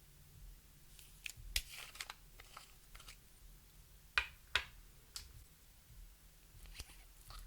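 Clear slime being kneaded and stirred, giving irregular sticky clicks and pops, with two louder pops about four seconds in.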